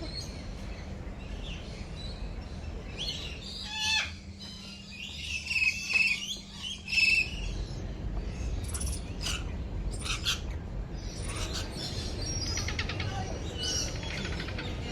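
Several birds calling and chirping over one another. A few louder calls come about four to seven seconds in, followed by a run of quicker chirps and a rapid trill.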